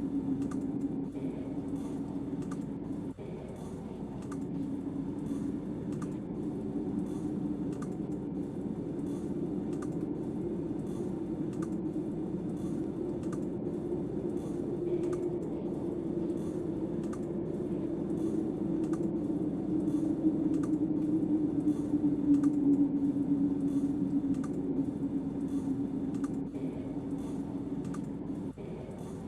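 Snowstorm wind howling steadily around the shelter, with a droning note that swells about two-thirds of the way through. Light crackling from a wood-burning stove fire clicks over it, roughly twice a second.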